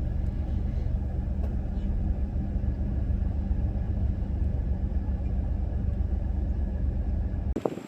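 A van's engine running with a steady low rumble, heard from inside the cabin. It stops suddenly near the end.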